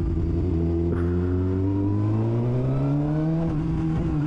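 Suzuki GSX-R 600's inline-four engine running very loud through an exhaust with the dB killer (baffle) removed. It pulls steadily with the pitch rising slowly, dips briefly about three and a half seconds in, then holds steady.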